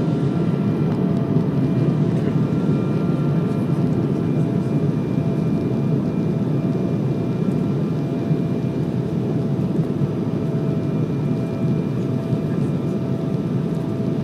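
Steady airliner cabin noise: a low rumble of jet engines and rushing air, with a few faint, steady whining tones above it.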